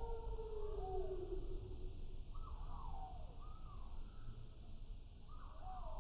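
Birdsong slowed down, so the calls come out low and drawn out: repeated arching, swooping notes, with a long held tone that sinks and fades in the first two seconds.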